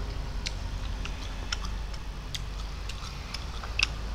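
Close-up eating sounds: irregular wet mouth clicks and smacks from chewing food, with a sharper click just before the end, over a steady low hum.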